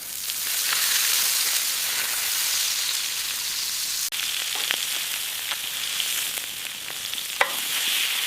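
Food frying over high heat: a steady, dense sizzle with a few sharp pops, the clearest near the end.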